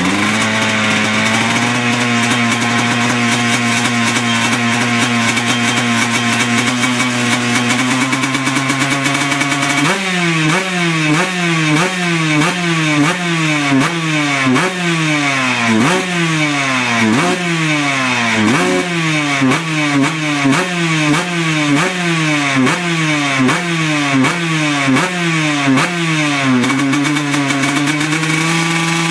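2007 Honda CR125R's single-cylinder two-stroke engine, through an FMF SST expansion chamber and Shorty silencer, idling steadily for about ten seconds. Then it is blipped over and over, about one quick rev a second, each falling back to idle, before settling near the end.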